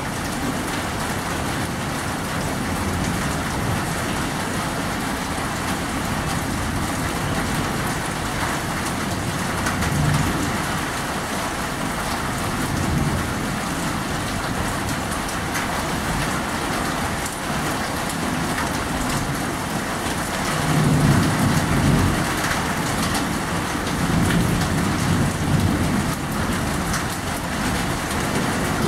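Steady rain falling during a storm, with a few low rumbles swelling under it, the loudest about two-thirds of the way through.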